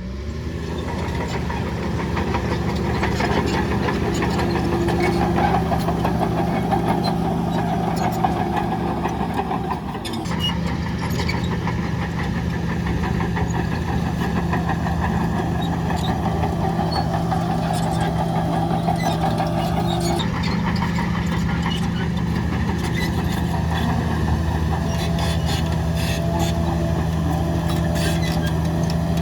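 Heavy diesel earth-moving machinery running steadily with a constant low engine hum. The sound changes abruptly about ten seconds in and again about twenty seconds in.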